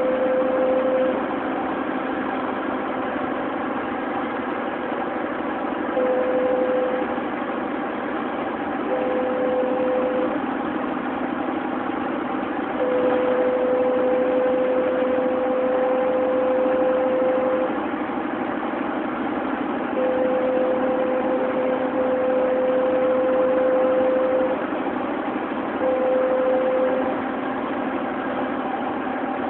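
Steady road and engine noise inside a car cruising at highway speed, about 110 km/h. A steady mid-pitched tone comes and goes over it in stretches of one to five seconds, the longest about five seconds, and the sound is slightly louder while the tone lasts.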